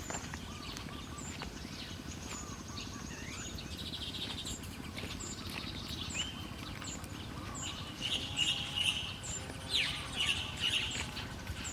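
Small wild birds chirping: a short high chirp repeats a little more than once a second, and louder bursts of busy chattering come in the second half.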